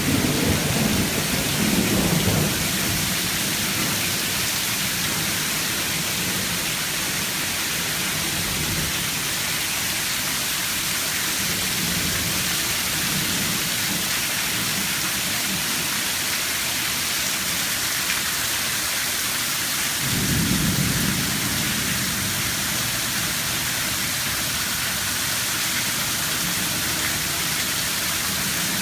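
Rain falling steadily, with low rumbles of thunder at the start and again about twenty seconds in.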